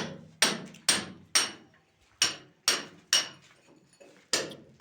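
Hammer blows with a sharp, ringing hit, coming about two a second in short runs of several strikes with brief pauses, as in plumbing work on a kitchen hole.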